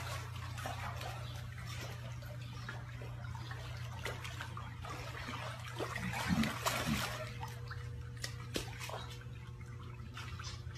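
Pool water sloshing, trickling and dripping as a young lion swims and clambers out onto a man in the water, with a steady low hum underneath.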